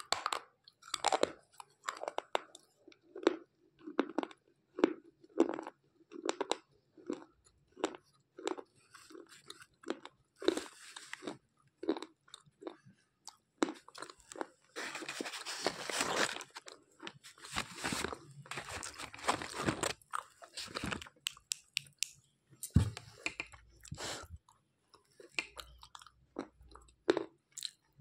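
White slate pencils being bitten and chewed right at the microphone: a regular run of sharp crunches, about two a second, giving way in the middle to a longer stretch of dense, gritty grinding, then sparser crunches. A single low thump comes toward the end.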